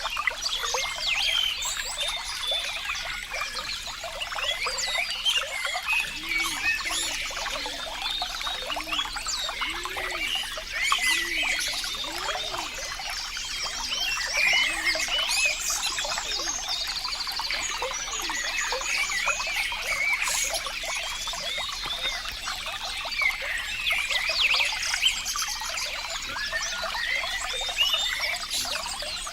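Running water trickling and babbling steadily, like a small stream, with a run of low gurgles between about six and thirteen seconds in.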